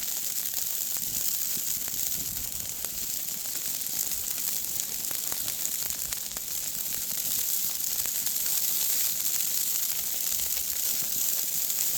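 Burgers sizzling steadily on a hot griddle, a continuous frying hiss with faint little crackles.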